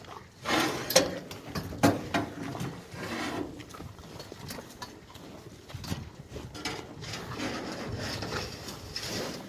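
Cattle at the feed, with several sharp knocks and shuffling.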